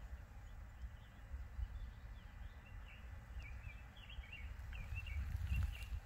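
A bird chirping a quick run of short high notes from about two and a half seconds in, over a low rumble on the microphone.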